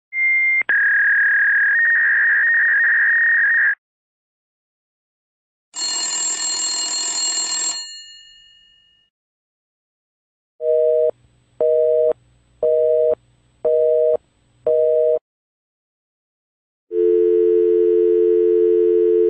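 A string of separate telephone tones. First comes a high electronic tone lasting a few seconds, then a bright ringing tone that fades away. Next is a busy signal beeping five times about once a second, and near the end a steady dial tone begins.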